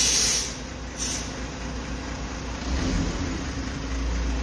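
Heavy FAW truck's diesel engine running with a steady low rumble that grows stronger about three seconds in. A loud hiss of released air at the start and a second short hiss about a second in come from the truck's air system.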